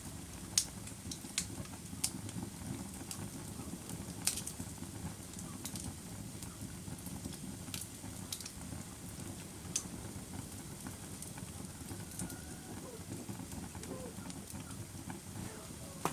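Wood fire burning with a steady low rumble and scattered sharp crackles and pops. The loudest pops come about half a second and about four seconds in, with fewer later on.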